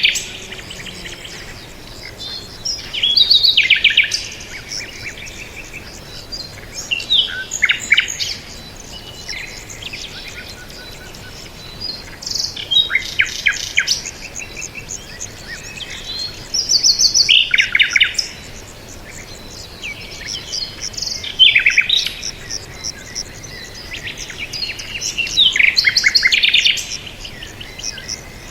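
A songbird singing short, rapid chirping phrases, each lasting about a second. The phrases repeat roughly every four seconds, with faint background ambience between them.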